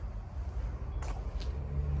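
Low rumble of a motor vehicle engine running, growing louder near the end, with a couple of faint clicks.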